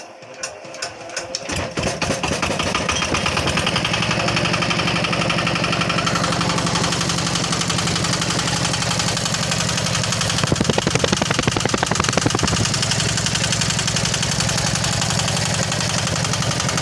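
A 190 diesel engine starting: separate knocks come faster for about two seconds until it catches, then it runs steadily with a fast even knock, rising briefly a little over ten seconds in.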